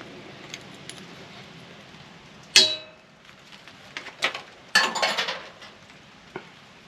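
Metal parts of a microwave being handled during disassembly. One sharp metallic clang with a short ring comes about two and a half seconds in, then a burst of clattering and rattling around four to five seconds in, and a light click near the end.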